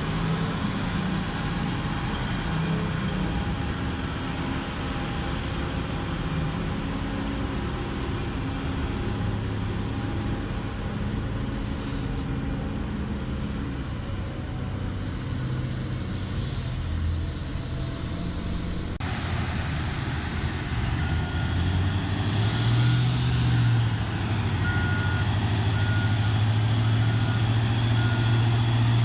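Diesel engine of a large mining haul truck, likely a Komatsu 730E, running with a steady low drone. Partway through, the engine gets louder and a reversing alarm starts beeping about once a second.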